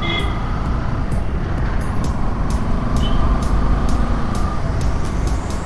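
Motorcycle riding through city traffic: a steady engine and road rumble. There is a short high beep at the start and another about three seconds in.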